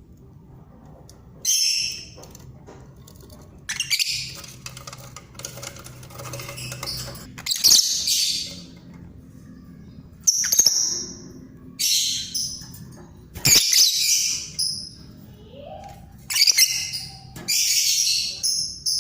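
Pet birds giving about nine loud, harsh, high-pitched calls at uneven intervals, each lasting up to about a second.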